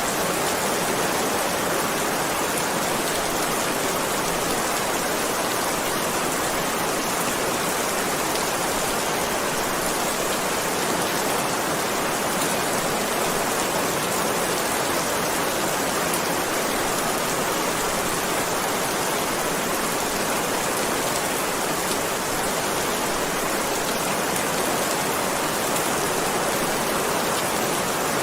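Heavy rain falling in a steady, dense hiss, with no let-up or change.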